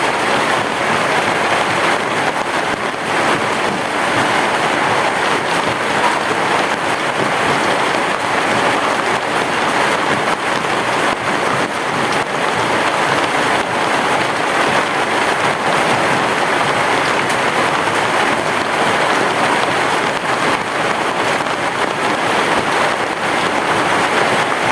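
Heavy rain falling steadily on a roof, a dense, even hiss with no thunder.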